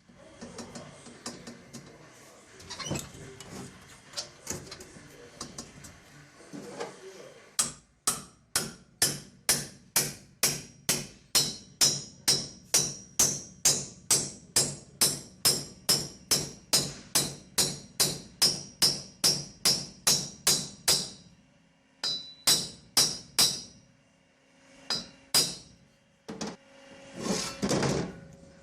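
Hammer tapping a metal blank into place in a cylinder head's spark-plug well: a long, even run of ringing blows, about two or three a second, that stops about two-thirds of the way through. A few scattered blows follow.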